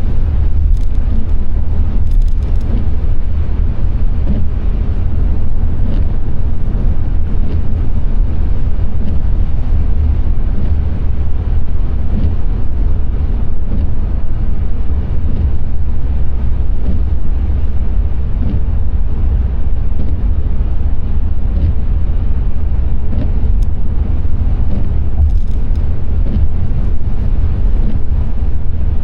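Car driving on a rain-wet road: a steady, deep rumble of road and engine noise, with a few faint ticks.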